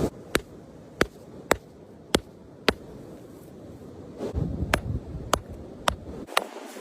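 Sharp, evenly spaced knocks, about two a second with a short pause in the middle, typical of a hammer striking a limestone nodule to split it.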